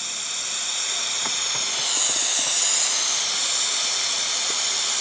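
Steady, high-pitched hiss of air rushing in through an opened radiator bleed vent on a hydronic heating system, drawn in as the system's water drains out.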